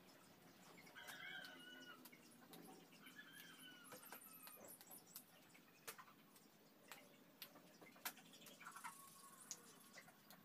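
Very quiet: birds chirping faintly a few times, with scattered small clicks of sweet potato stems snapping as the leaves are picked off by hand.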